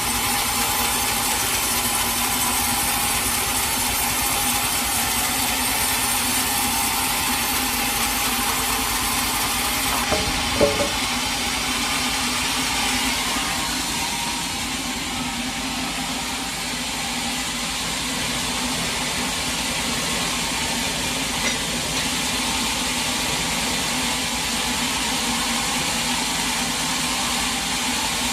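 Sawmill machinery running steadily, with a couple of short knocks about ten seconds in, after which the high hiss eases off.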